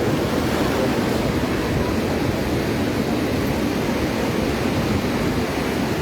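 Steady noise of Atlantic surf breaking on the beach, with wind.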